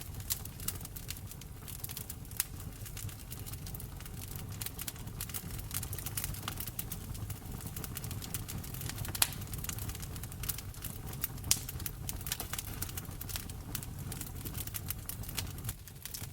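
Wood fire crackling in a fireplace: irregular sharp pops and snaps over a low, steady rumble of the flames, with a couple of louder pops midway.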